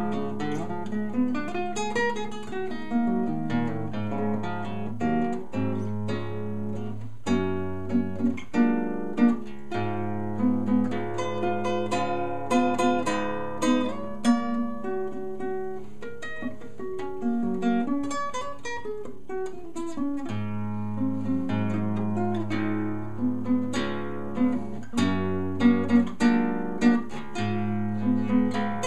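Acoustic guitar playing an instrumental piece: quick plucked melodic runs over repeating low bass notes, with a few louder strummed accents.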